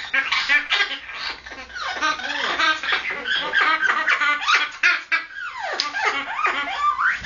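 Red-lored Amazon parrot giving his breeding-season mating call: a fast, unbroken run of chattering calls with sweeping squeals that slide down and up in pitch.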